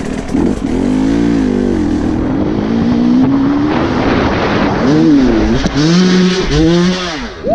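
Enduro motorcycle engine revving hard. Its pitch rises and falls again and again with the throttle, most often in the last few seconds as the bike climbs a steep rocky bank. Heard from the rider's helmet camera.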